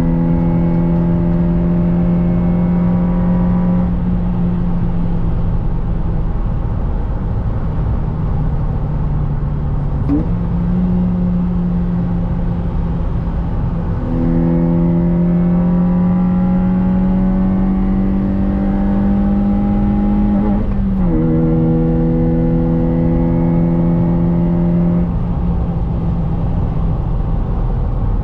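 Honda Jazz engine heard from inside the cabin, pulling under acceleration with its note climbing slowly in each gear. The pitch steps up about ten seconds in, drops at a gear change about twenty-one seconds in, and eases off near the end.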